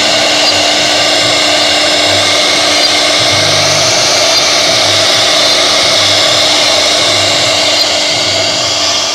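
CNC router spindle running steadily as it machines MDF: a loud, even whir with a constant steady tone underneath.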